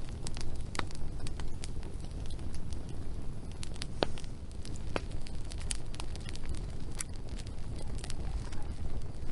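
Wood fire burning, crackling and popping irregularly over a low steady rumble of flame, with a few louder sharp pops.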